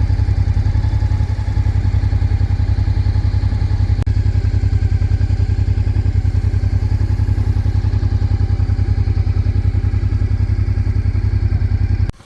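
Honda XRV Africa Twin's V-twin engine idling steadily with an even pulse, cutting off suddenly near the end.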